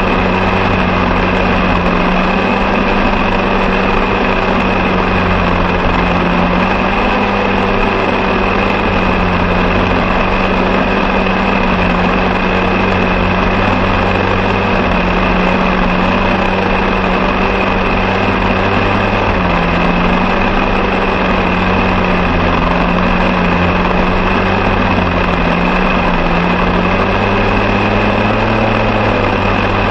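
Engine running loud and steady at a near-constant high speed, with small dips in pitch now and then, as from a lawn mower engine held at full throttle while mowing.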